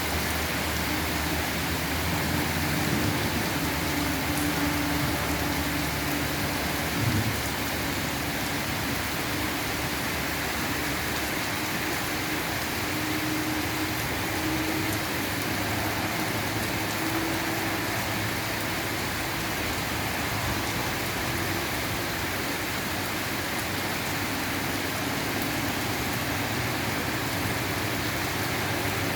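Steady autumn rain falling, an even hiss of drops on surfaces. A faint low hum sits under it for about the first seven seconds.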